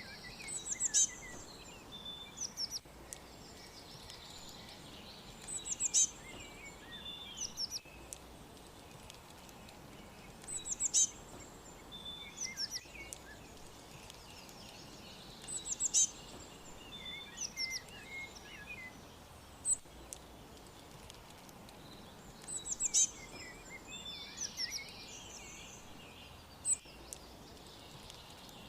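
Songbirds chirping and singing over a steady faint hiss. One bird repeats a short, high phrase of quick falling notes about every five seconds, with scattered lower chirps from others in between.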